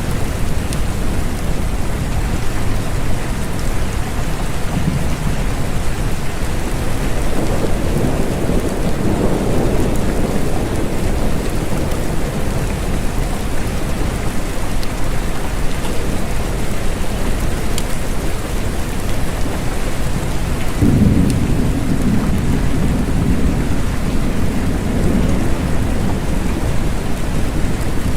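Steady rain falling, with low rolls of thunder: one swelling up about a third of the way in, and another breaking in abruptly about three-quarters of the way through and rumbling for several seconds.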